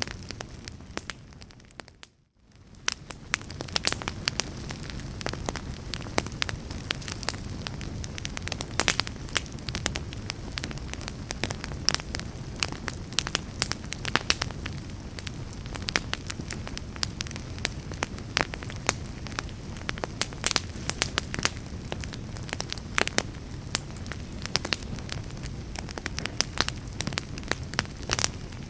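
Log fire burning in a fireplace: a steady low rush of flames with frequent irregular crackles and pops of burning wood. About two seconds in the sound fades briefly almost to silence, then fades back up.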